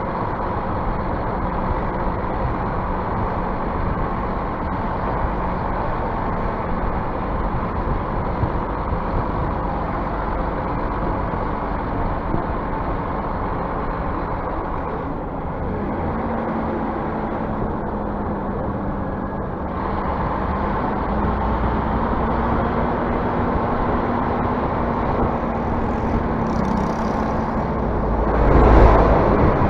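Scania bus engine running steadily, its pitch stepping up a little about halfway through, with a loud brief rush of noise and rumble near the end.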